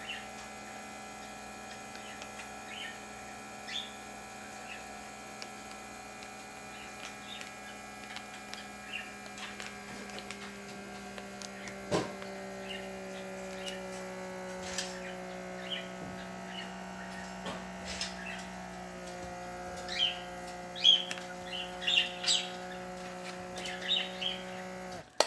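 FoodSaver handheld vacuum sealer's small motor running steadily, pulling the air out of a zipper bag through its valve, its tone shifting slightly partway through and then cutting off near the end. Pet birds chirp over it, more often toward the end.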